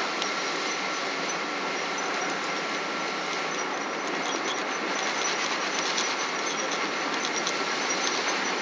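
Steady cabin noise inside a Boeing 777: engine and air noise heard from a passenger seat, with a thin steady whine and light scattered rattles of the cabin trim.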